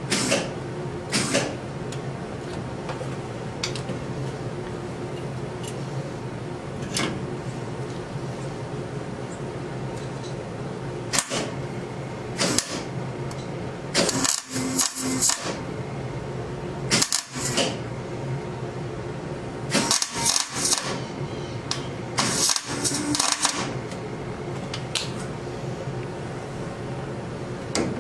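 Short bursts of rapid metallic clicking and rattling from hand tools at work, four times in the second half, with scattered single clicks, over a steady machine hum.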